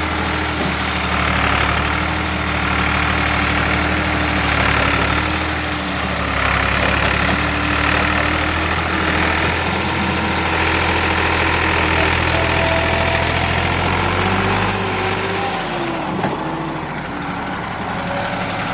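Massey Ferguson 260 tractor's three-cylinder diesel engine running steadily while pulling a fully loaded trolley. The engine note drops about fifteen seconds in.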